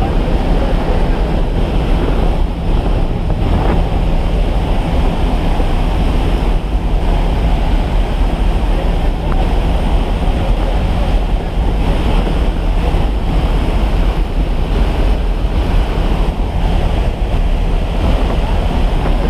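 Loud, steady wind rush buffeting the microphone, with a low steady drone underneath.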